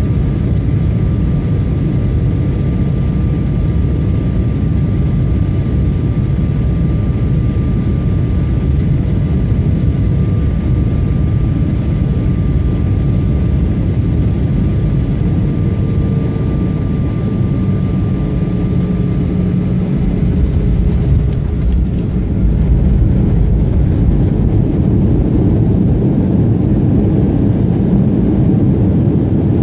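Airplane noise during a night landing: a steady loud rumble with a faint high whine. Around three-quarters of the way in there are a few knocks, and then the rumble grows a little louder.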